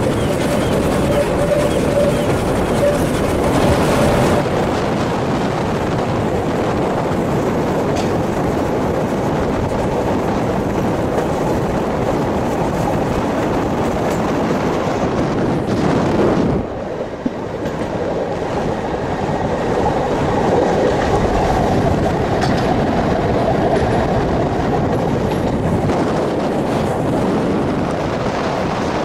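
Heritage steam tram train running along the track, heard from aboard a moving carriage: a steady rumble and clatter of wheels on the rails, which dips briefly a little past halfway through.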